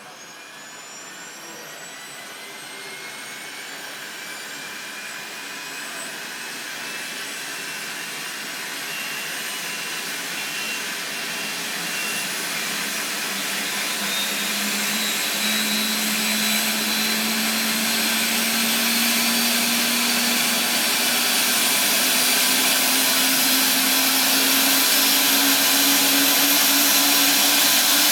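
Eurocopter EC145's Turbomeca Arriel 1E2 turboshaft engine starting up: a turbine whine rising in pitch and growing steadily louder as it spools up, with a lower hum joining about halfway through.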